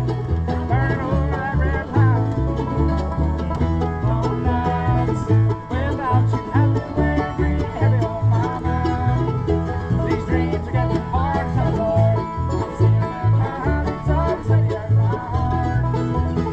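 Acoustic bluegrass band playing a tune together: fast banjo picking and strummed guitar over steady low bass notes on the beat, with some sliding melody notes above.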